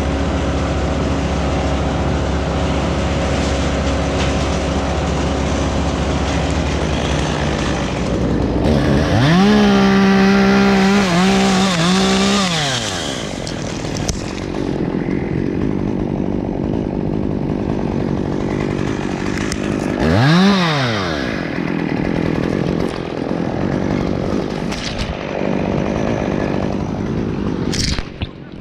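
Chainsaw revved up twice over a steady engine drone. The first rev comes about nine seconds in and is held for about three seconds before dropping back; the second, shorter one comes about twenty seconds in.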